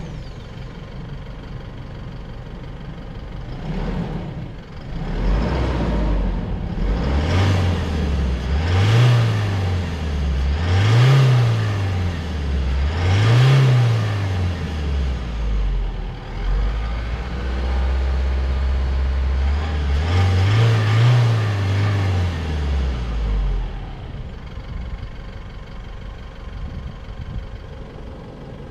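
Isuzu D-Max's 3.0-litre 4JJ turbo-diesel four-cylinder running steadily, then accelerating hard. The revs climb and drop three times as the automatic shifts up, hold steady, rise and fall once more, then ease off near the end.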